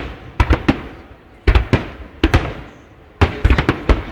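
Fireworks exploding overhead: a steady series of sharp bangs, often two or three in quick succession, each followed by a rolling echo that dies away before the next.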